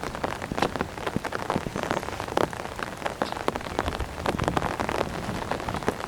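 Heavy rain falling: a dense patter of drops with many irregular, sharper hits close by.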